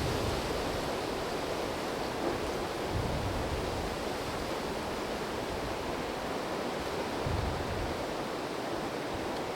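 Wind rushing steadily through trees, with gusts buffeting the microphone as low rumbles about three seconds and seven seconds in.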